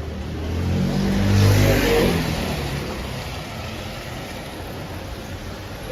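A motor vehicle passes close by: its engine note and tyre noise build to a peak about a second and a half in, then fade away.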